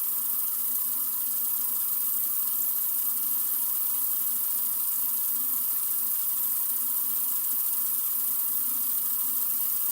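Sink faucet running in a steady stream, an even hiss with no changes.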